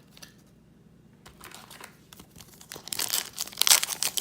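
Foil wrapper of a trading card pack crinkling and being torn open, starting about a second in and getting louder toward the end.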